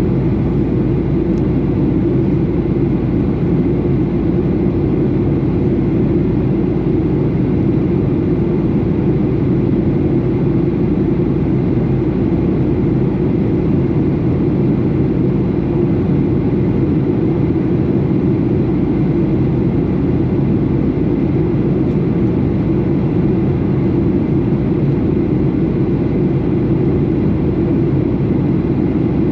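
Steady cabin noise inside a Boeing 737 airliner in flight: the engines and airflow make an even, deep hum that holds without change.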